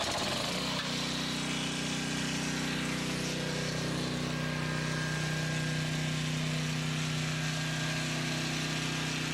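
Small engine of a 3500-watt portable generator running steadily just after being started, settling into an even pitch about half a second in. It runs with no load yet switched on.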